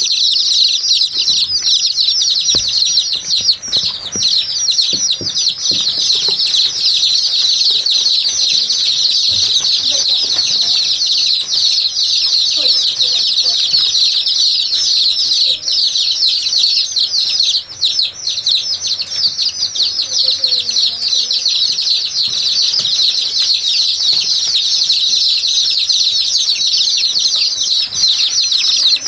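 A flock of many small caged birds chirping all at once, a dense, unbroken chatter of high calls.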